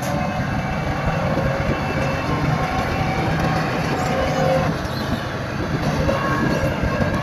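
Bulldozer's diesel engine running steadily with continuous machinery noise, with faint held whining tones over a dense low rumble.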